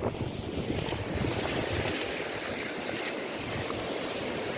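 Steady wash of sea surf mixed with wind rumbling on the microphone.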